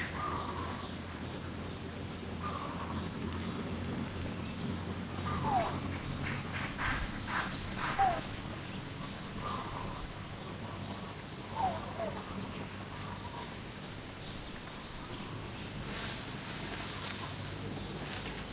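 A few short, falling squeaky calls from animals, about three times, and some clicking strokes, over a steady high insect hum.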